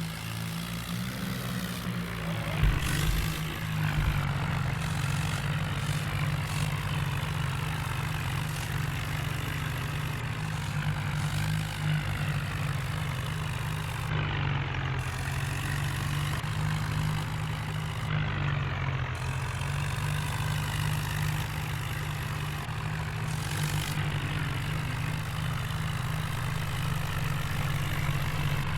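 Heavy diesel engine running steadily, a low even drone that sags slightly in pitch a few times, with a couple of sharp knocks a few seconds in.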